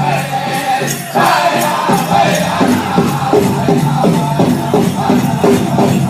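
Powwow drum group singing together over a steady beat on a big drum, the voices repeating falling phrases.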